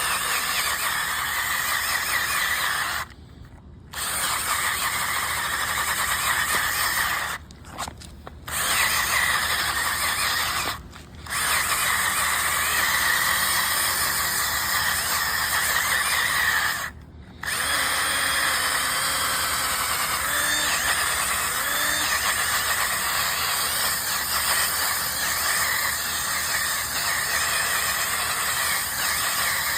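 Brush scrubbing fabric cleaner into a dirty carpeted car floor mat: a steady scrubbing noise that stops briefly four times.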